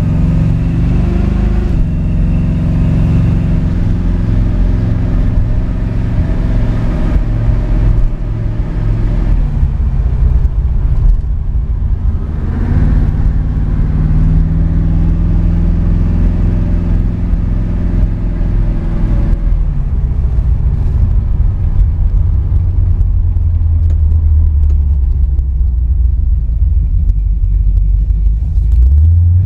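1972 Chevrolet Nova Yenko clone's engine and exhaust running on the road, heard from inside the cabin. The engine note climbs as it accelerates near the start, again about twelve seconds in and just before the end, and settles back to a steady cruise in between.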